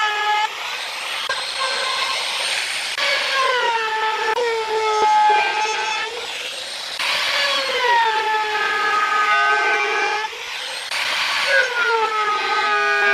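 Electric power tool cutting wood: its motor whine drops in pitch as it bites into the wood and climbs back between passes, several times over, with a rasping cutting noise under load.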